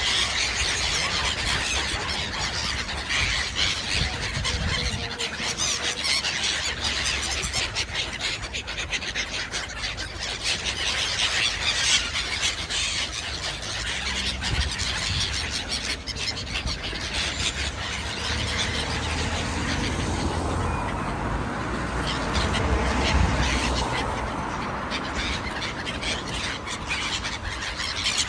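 A flock of birds feeding on scattered food, many shrill, overlapping calls and squeals going on continuously.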